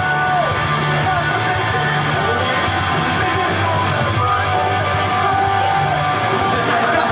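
Rock band playing live: electric guitar and bass with a voice singing or shouting over them.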